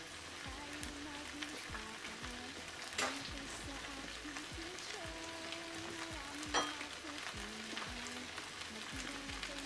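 Chicken and prawn pad thai frying in a wok on a gas hob, a steady sizzling hiss. Two sharp clicks stand out, about three seconds in and again at six and a half, over faint background music.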